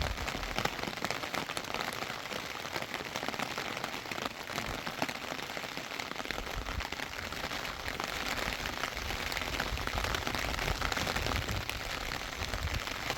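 Steady rain falling, a dense patter of drops, with a low rumble joining about halfway through.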